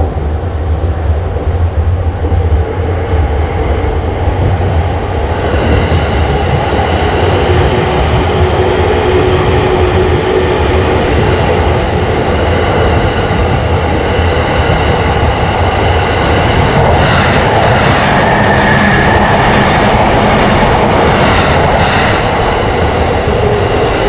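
Train running by: a steady low rumble, joined about five seconds in by louder, fuller rolling noise.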